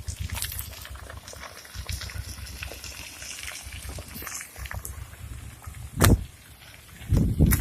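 Floodwater rushing, under a steady low rumble on the microphone. Two loud low rumbles break in, a short one about six seconds in and a longer one near the end.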